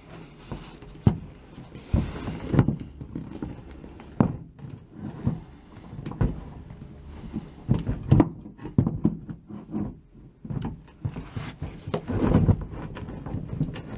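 Passenger seat of a VW Beetle being slid into place on its floor rails: irregular clunks and knocks with scraping and rubbing of metal between them.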